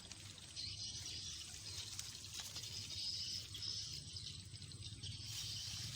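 Outdoor ambience: a steady high hiss over a low rumble, with no distinct single event.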